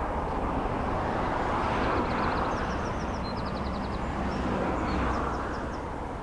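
Steady rushing noise of passing vehicles that fades near the end, with a small bird singing several quick high trills over it.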